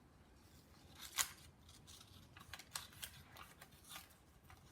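Scissors snipping through a strip of magazine paper in a series of short, faint cuts, the loudest about a second in.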